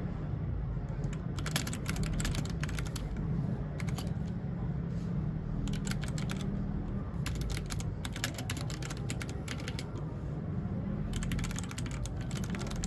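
Typing on a mechanical keyboard: several runs of rapid key clicks with short pauses between them, over a low steady hum.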